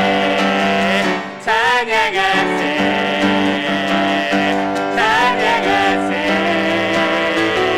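Worship praise team singing a hymn with piano accompaniment; sung phrases with vibrato come in over sustained chords.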